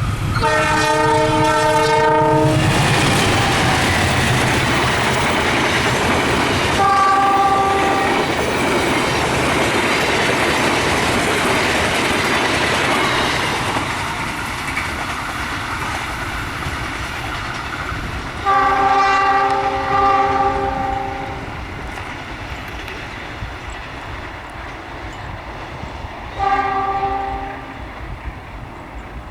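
Train passing: a locomotive's multi-tone horn sounds a long blast at the start, a short one about 7 seconds in, a double blast near 19–20 seconds and a short one near the end, over the rumble and clatter of the train's wheels on the rails, which fades after about 14 seconds.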